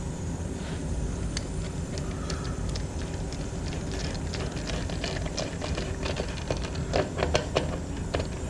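Light clicks and taps of humidifier parts being handled and fitted back together, scattered through and bunching up about seven seconds in, over a steady low hum.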